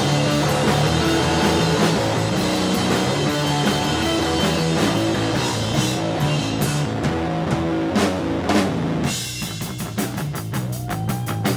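Rock music with a drum kit and guitar. About nine seconds in the full band drops away, leaving a sparser part of quick, evenly spaced drum hits.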